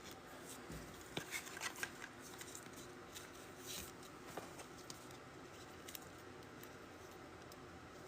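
Faint handling of trading cards and their packaging: a few soft clicks and light rustles, with a brief swish about three and a half seconds in.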